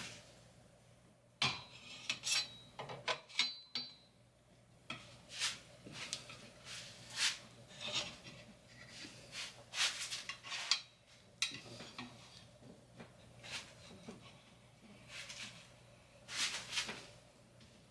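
Two long metal screwdrivers scraping and clinking against a VW axle tube as a greased one-piece rubber axle boot is levered over it: irregular short scrapes and clicks, some rubbing.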